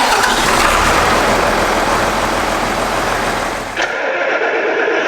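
Played-back recording of a John Deere tractor's diesel engine starting and running, loud and dense, with an abrupt change in the sound about four seconds in.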